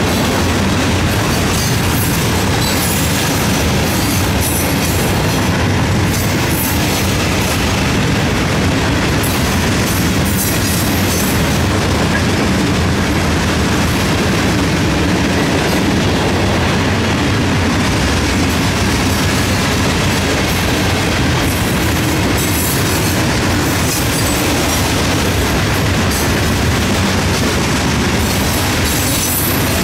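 Loaded aggregate hopper cars of a freight train rolling past: a loud, steady rumble of steel wheels on the rails with a clickety-clack of wheel sets.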